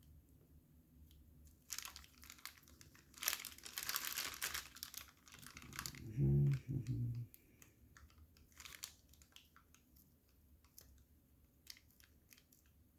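Small plastic bag crinkling, briefly at first and then for a longer stretch, followed by a short hummed voice sound and faint ticks of small watchmaking tools.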